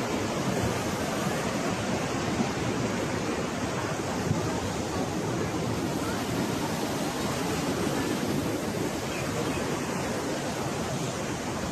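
Floodwater rushing, a steady, even sound of moving water.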